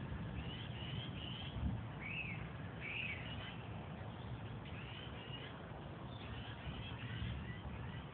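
Songbirds singing, short chirping phrases repeated every second or so, over a steady low rumble.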